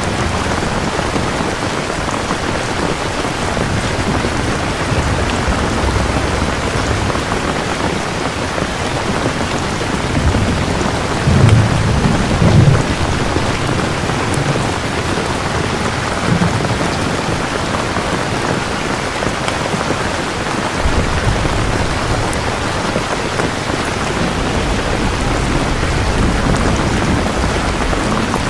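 Steady heavy rain with rolling thunder; the loudest rumble swells about ten seconds in, peaking twice in quick succession, and a smaller rumble follows a few seconds later.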